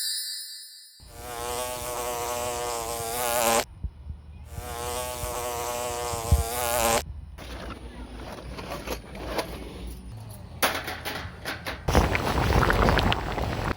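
An insect buzzing close by in two stretches of about two and a half seconds each, the pitch wavering. Then irregular crackling and clicking, denser and louder near the end.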